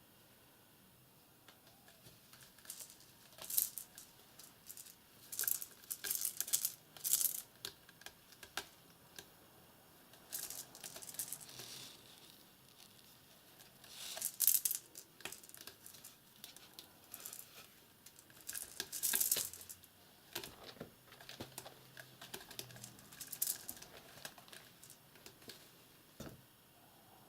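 Irregular soft rustling and crinkling in short, scattered bursts, the loudest about three and a half seconds in, around five to seven seconds, and near fourteen and nineteen seconds.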